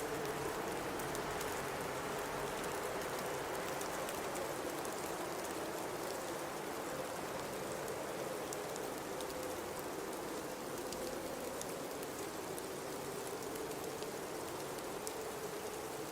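Blizzard wind blowing steadily, a hiss of noise carrying a wavering, whistling tone that rises and falls slowly, with faint scattered ticks.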